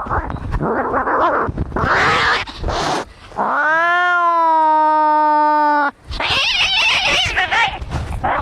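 Cats fighting: harsh hissing and screeching cries, then one long yowl that rises and holds steady for about two and a half seconds before cutting off, followed by more screeching.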